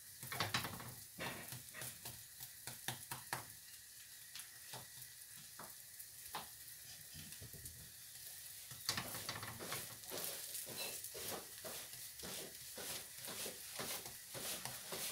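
Mushroom omelette frying in oil in a frying pan: a steady sizzle with irregular crackles and pops, which get louder and denser about nine seconds in.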